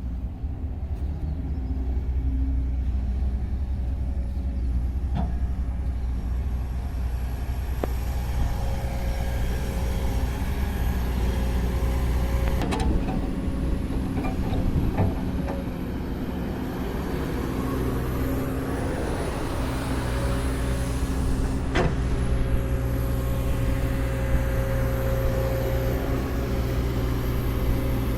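Heavy diesel engine and hydraulics of an excavator running steadily while it loads sand into a tipper truck, with a faint high whine rising and falling above the drone and a few sharp knocks, the loudest about three-quarters of the way through.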